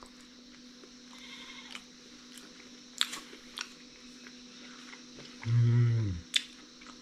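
A man chewing a piece of boiled pork fat, with a few soft mouth clicks, then a short, low hummed 'mmm' of approval about five and a half seconds in, dropping in pitch at the end.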